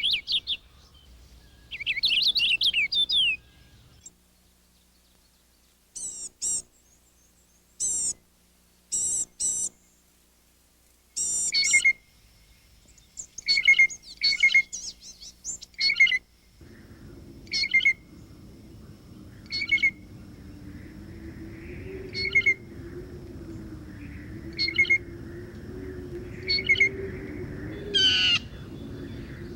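Small songbirds chirping and calling at a backyard feeder: scattered short, high chirps in clusters, then from about halfway a single call roughly every two seconds over a steady background noise.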